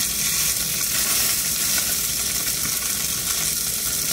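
Salmon patties sizzling steadily as they fry in a hot cast iron skillet over medium-high heat.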